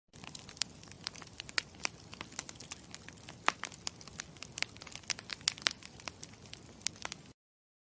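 Campfire crackling: a steady low hiss with irregular sharp pops and snaps. It cuts off abruptly a little past seven seconds in.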